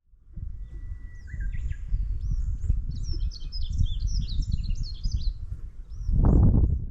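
A songbird singing: a held whistle, then a quick run of varied high chirps and trills, over a steady low rumble. A louder rush of noise comes near the end.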